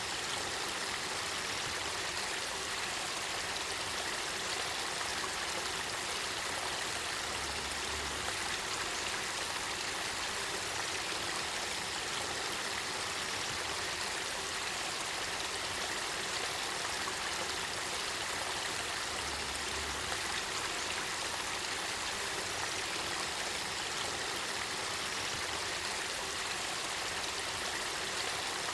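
Spring water flowing in a steady, unbroken rush.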